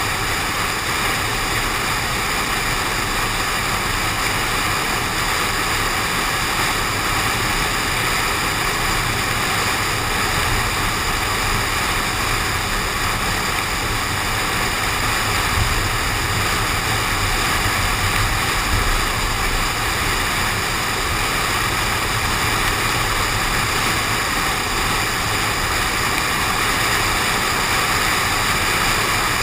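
Steady rushing wind and road noise on a GoPro suction-cupped to a moving car's window, unbroken throughout.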